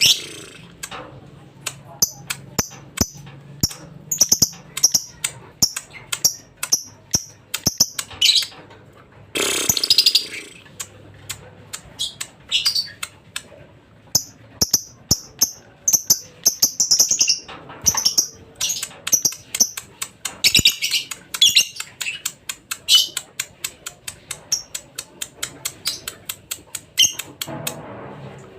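Lovebird singing: long runs of quick, high, sharp chirps broken by a few longer chattering bursts.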